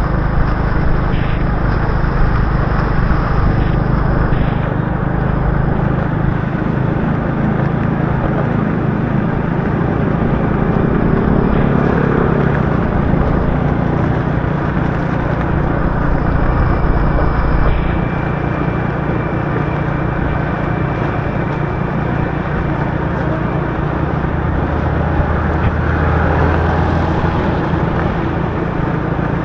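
Motorbike engine running steadily under way, mixed with a constant hiss of rain and tyres on the wet road.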